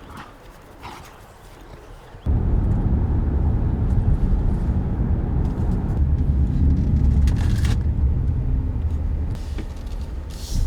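A faint outdoor background with a few light clicks, then about two seconds in a sudden switch to the steady low rumble of a car driving on the road.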